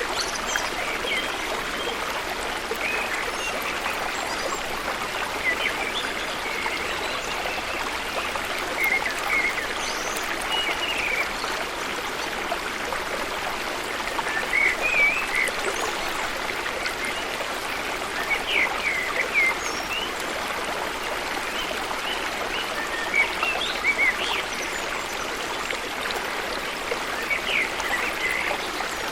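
Steady rush of flowing water from a waterfall and stream, with scattered short bird chirps every few seconds.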